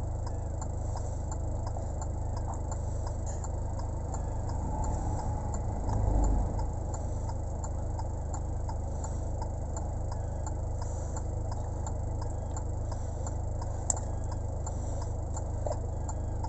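Steady low drone of a moving vehicle heard from inside the cabin, with faint, evenly spaced ticking throughout and a brief louder swell about six seconds in.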